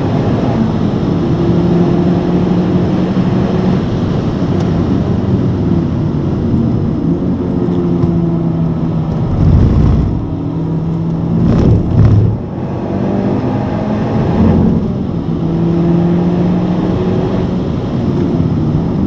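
Honda Civic Type R's turbocharged four-cylinder engine heard from inside the cabin, pulling at high revs on track. Around the middle it drops off under braking, with a couple of loud thumps, then climbs again as the car accelerates out.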